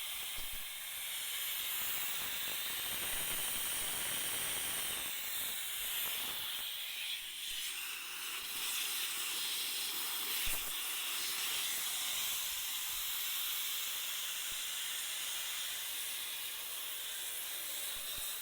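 Compressed air hissing steadily out of a Craftsman 20-gallon air compressor's tank through its drain, spitting out water: the tank is full of moisture.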